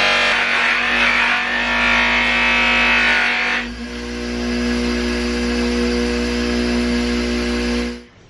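Motor-driven polishing buffing wheel running with a steady hum. For the first three and a half seconds a metal door plate is pressed against it, adding a harsh hiss; after that the wheel spins free. The sound cuts off suddenly near the end.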